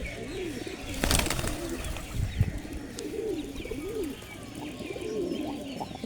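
Pigeons cooing: repeated low, wavering coos that overlap one another. A short noisy burst about a second in and a low thump a little after two seconds stand out above the cooing.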